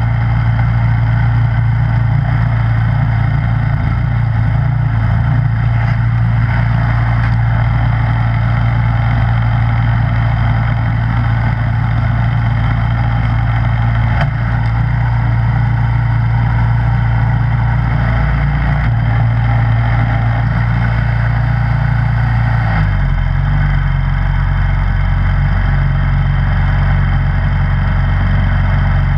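Snowblower engine running steadily. About 23 seconds in its note shifts slightly and then holds steady again.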